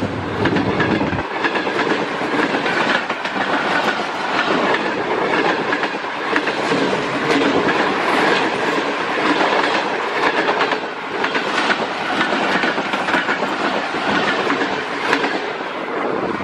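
Express passenger train passing, its wheels clattering steadily over the rail joints.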